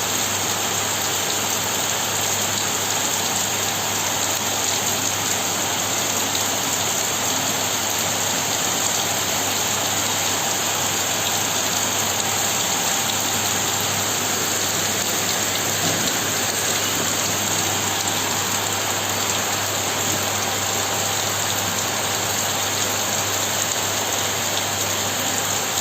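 Heavy rain falling steadily, an even hiss of rain on surfaces with no let-up.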